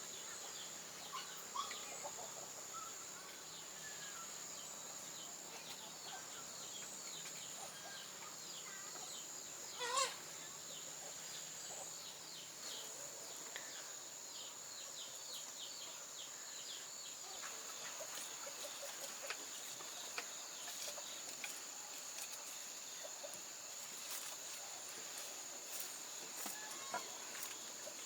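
Chickens clucking and peeping over a steady high insect drone, with one louder squawk about ten seconds in.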